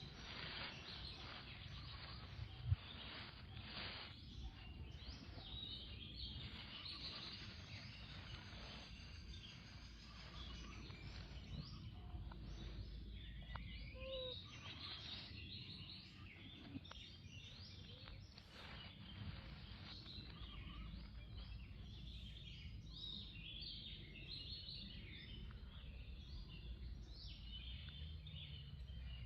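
Faint outdoor ambience: a steady low rumble with many short, high bird chirps, busier in the second half, and a single sharp click about two and a half seconds in.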